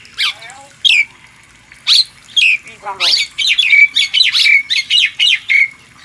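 Bird calls: short, sharp, high calls that fall in pitch, a few spaced ones at first, then a rapid chattering run of them from about halfway through.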